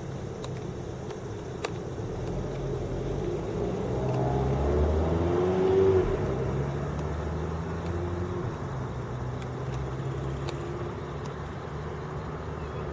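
A motor vehicle passes, its engine sound building to a peak about six seconds in and then fading, over a steady low outdoor hum.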